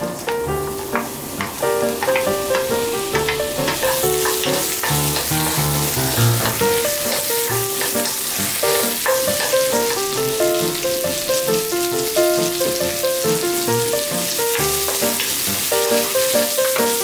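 Sliced onion and potato sizzling in melted butter in a nonstick frying pan while being stirred, the hiss growing fuller about four seconds in. Light background music with a melody plays over it.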